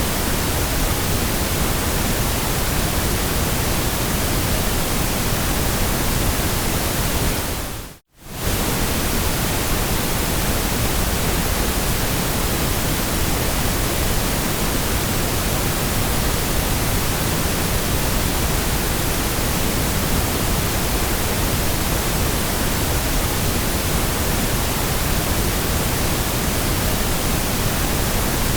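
Steady white-noise hiss, even across all pitches, with a brief fade to silence and straight back about eight seconds in.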